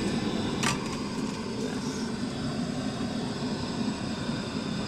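Camp stove burner running with a steady low roar under a pot of water being brought close to the boil; a sharp click about a second in.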